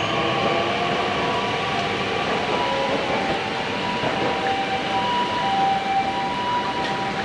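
Tokyu 7000-series commuter train heard from inside the car while running: a steady rumble of wheels and running gear, with a couple of steady high tones held throughout.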